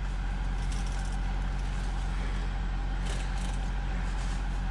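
V6 engine of a 2014 Ford F-150 idling steadily, an even low hum with no change in speed.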